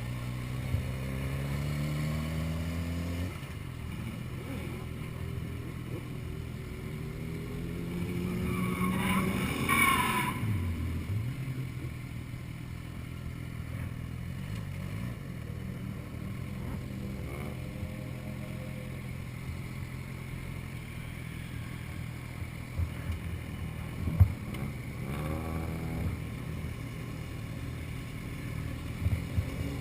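Motorcycle and traffic engines running, with engines speeding up in rising pitch near the start and again later. A vehicle passes loudest about ten seconds in, over a steady low engine drone.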